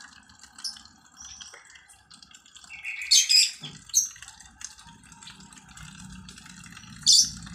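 Pet starling bathing in a water dish, splashing with short bursts of flicked water, the biggest splashes about three seconds in and again near the end.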